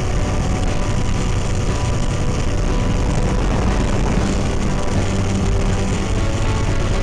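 Radio-controlled model airplane running steadily, its engine heard over a dense low rumble.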